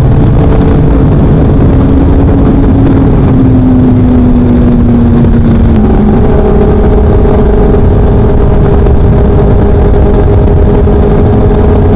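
Yamaha R1 crossplane inline-four running through an aftermarket Leo Vince 3/4 exhaust while riding, with wind noise. The engine note sinks slowly as the bike eases off, then steps up to a higher, steady note about halfway through.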